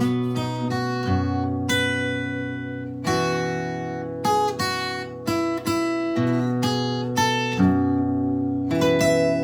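Solo guitar playing a slow melody over bass notes and chords, each note plucked and left ringing.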